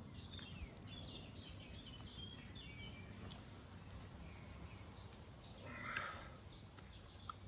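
Faint birdsong of short chirps over low, steady outdoor background noise, with a short soft noise about six seconds in.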